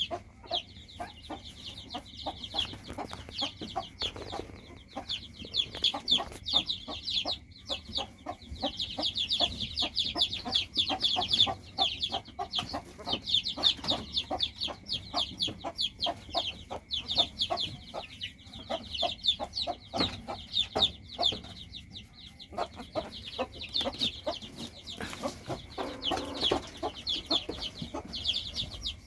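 A small animal crying in rapid, high-pitched peeps and squeaks that keep on with only short pauses.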